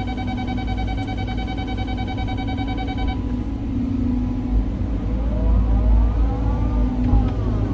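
Cat 323 hydraulic excavator's diesel engine running under load with a low rumble, and a steady high whine that cuts off suddenly about three seconds in. Near the end the hydraulics whine, rising and falling in pitch as the machine works.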